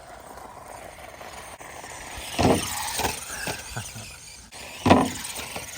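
Redcat Volcano 16 electric RC monster truck driving hard, its motor and drivetrain whining and its tyres squealing, with two louder sharp bursts about two and a half and five seconds in.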